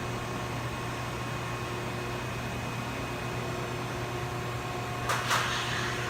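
Steady hum of the vertical cardboard baler's 10 hp Baldor electric motor running its hydraulic pump. A brief hiss with a couple of clicks comes about five seconds in.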